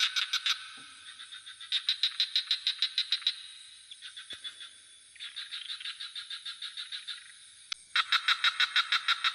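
A frog chorus calling in pulsed trills of about six pulses a second, bout after bout, the loudest near the end, over a steady high insect drone.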